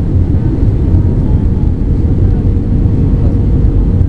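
Cabin noise inside an Airbus A320-214: a steady low rumble of its CFM56 engines and the airflow over the fuselage, with a faint steady hum above it.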